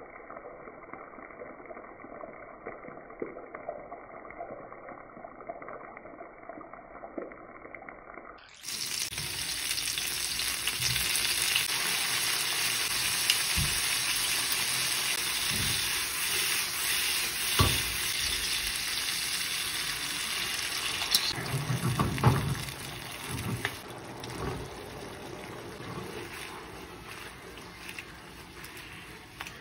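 Bell pepper and onion pieces sizzling in hot oil in a frying pan, with the sizzle much louder from about a third of the way in and easing near the end. A few knocks of a utensil against the pan come in the second half.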